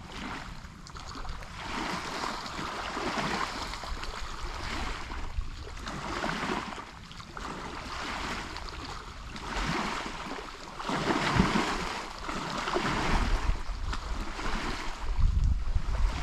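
Water lapping at a lake shore, with a hiss that swells and fades every second or two, and wind rumbling on the microphone now and then.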